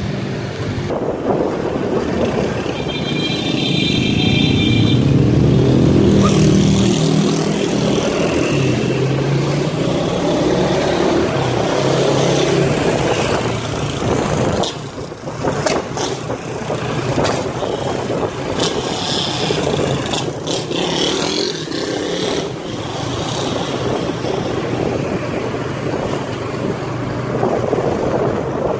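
Motorcycle engine running while riding, under wind and road noise, with the engine note shifting over the ride. A high steady tone sounds for about two seconds a few seconds in.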